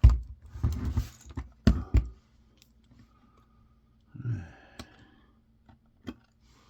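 Clicks, knocks and short scrapes of hand tools and plastic parts being handled while a camcorder casing is taken apart, with a brief squeak a little past the middle.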